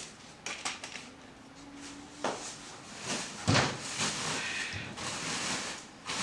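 Handling noises: scattered clicks and knocks, then a heavy thump about three and a half seconds in, followed by a few seconds of rustling.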